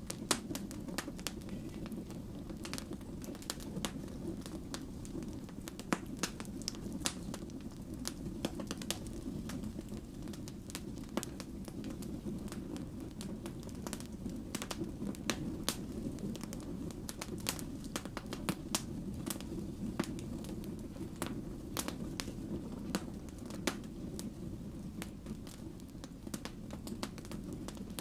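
Wood fire burning: a steady low rush of flames with many small sharp crackles and pops from the burning logs.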